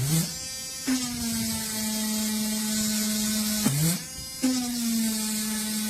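A Keelat cordless mini rotary tool's small electric motor running with a steady high hum. Twice it winds down, cuts out for a moment and spins back up: once right at the start and once a little over halfway.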